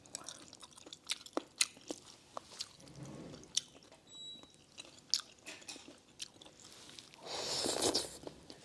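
A person eating noodle soup: chewing, with many small scattered clicks and smacks, and a louder noisy stretch near the end.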